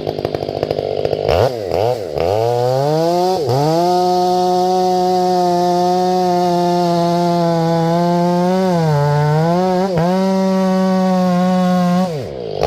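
Ported Stihl 500i fuel-injected two-stroke chainsaw blipped to high revs a few times, then held at full throttle for about eight seconds as it bucks a grand fir log. Its pitch dips briefly about nine seconds in, and it drops back to idle near the end.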